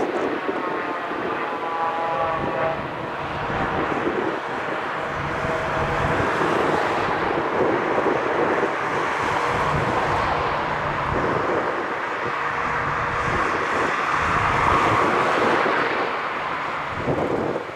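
Airbus A320neo jet engines during a landing, a loud continuous rushing with faint whining tones in the first few seconds, with wind on the microphone.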